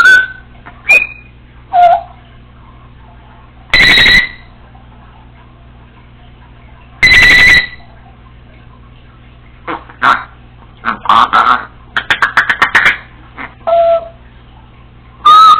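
Congo African grey parrot calling: short whistled chirps, then two loud, buzzy, beep-like notes about half a second each, a quick run of clicks and squeaks, and a final whistle.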